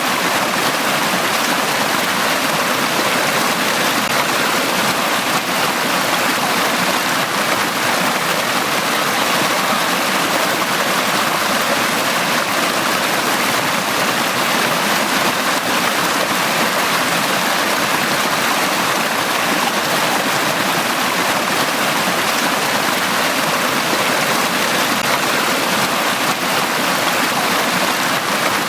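Brook of running water flowing steadily: an even, unbroken rush of water.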